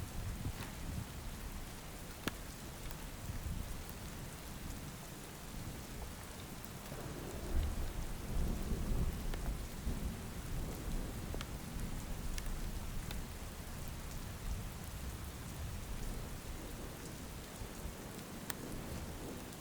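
Steady rain falling, with individual drops ticking close by, and a low rumble of thunder swelling about seven seconds in.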